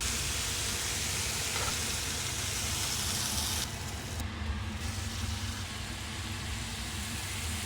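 Chicken frying in a hot pan, a loud steady sizzle over a low hum. The hiss cuts in suddenly and thins abruptly about three and a half seconds in.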